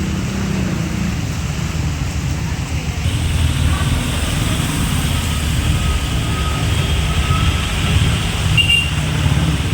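Road traffic: vehicle engines running and passing in a steady rumble.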